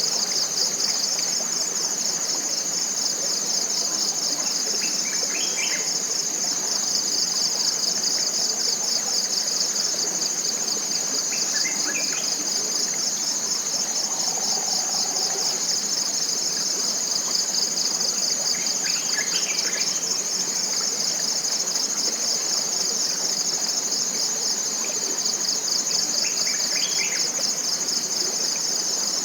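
Continuous high-pitched insect chorus with a fast, even pulse, the loudest sound throughout, over a steady hiss of background noise. Short bird chirps break in every few seconds.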